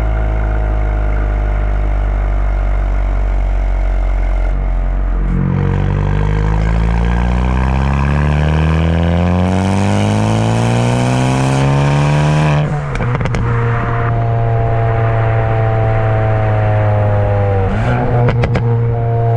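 Hyundai i20N's turbocharged four-cylinder engine and exhaust, with the gasoline particulate filter removed. It runs steadily, then revs up for about seven seconds. On lifting off there is a sudden drop and a quick burst of crackles and pops. It then settles to a steady drone, with another short crackle near the end.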